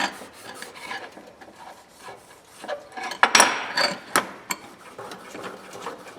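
Polished adjustable wrenches being handled and wiped on a workbench: irregular rubbing and scraping with scattered sharp metal clicks, and a louder scrape about three seconds in.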